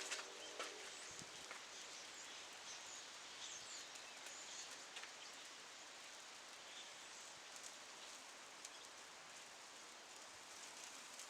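Wood campfire with thin-sliced pork belly grilling over it: a faint steady sizzling hiss with scattered small crackles and pops.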